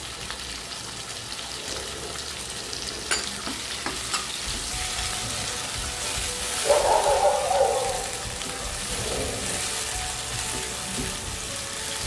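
Chopped onions, tomatoes and grated ginger sizzling in oil in a nonstick frying pan, stirred with a spoon. A few sharp clicks of the spoon against the pan come around three to four seconds in, and the stirring gets louder for about a second around seven seconds in.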